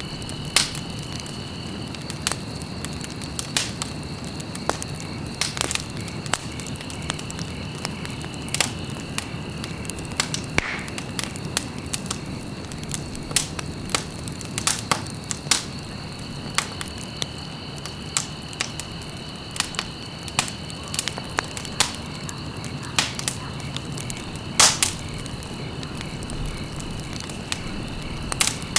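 Wood fire burning in a fireplace: irregular sharp crackles and pops over a low steady rumble of flame, with a louder pop about three-quarters of the way through. A faint steady high whine runs underneath, fading out for a while and coming back.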